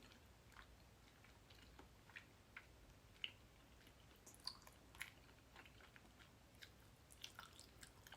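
Faint chewing of wide glass noodles from tteokbokki: soft, irregular mouth clicks every half second or so over low room hum.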